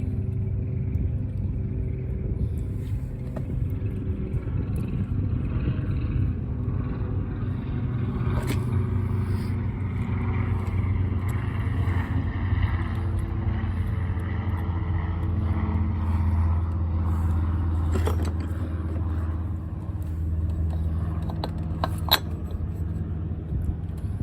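Steady low mechanical hum, like a motor or engine running, with a few sharp clicks near the end.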